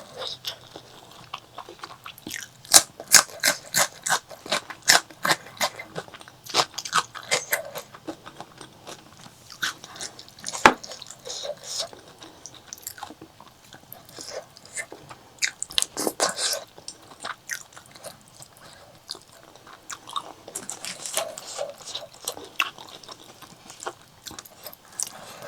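Close-miked chewing and biting of pork leg curry with rice: wet smacking and crunchy bites in irregular runs, with one sharp click about ten seconds in.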